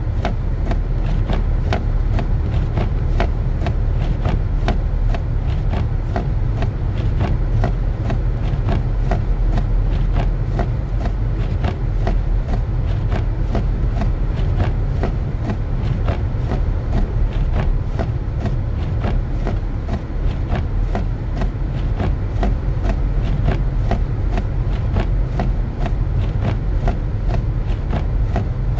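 Car driving on a snowy road, heard from inside: a steady low rumble of engine and tyres, with light, evenly spaced ticks about two to three times a second all through.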